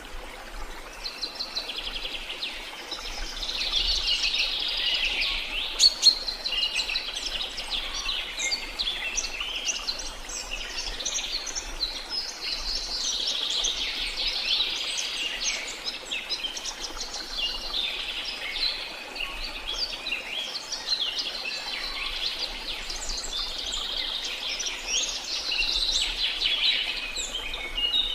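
A dense chorus of many birds chirping and trilling without pause, over a steady hiss of falling water from a jungle waterfall.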